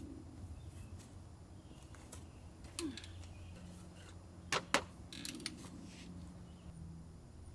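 A few sharp clicks and taps, the loudest two in quick succession about halfway through, over a low steady hum.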